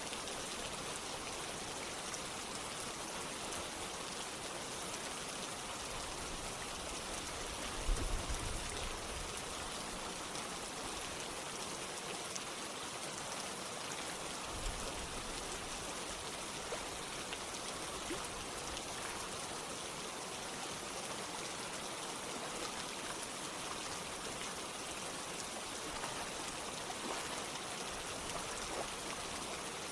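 Steady rain falling together with running water, an even, unbroken hiss. A brief low thump stands out about a quarter of the way in.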